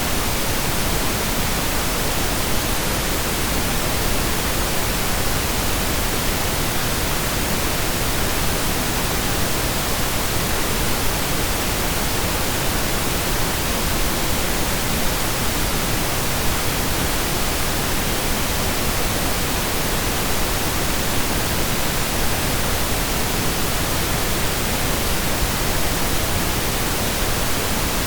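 Pink noise from digital synthesis: a steady, even hiss spread across the whole range, with nothing changing.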